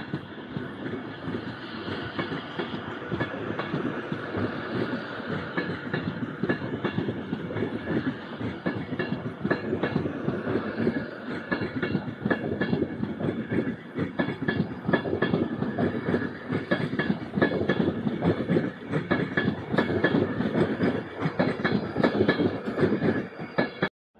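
Avanti West Coast passenger train passing on a nearby track: wheels clicking over rail joints under a steady whine. The sound cuts off abruptly near the end.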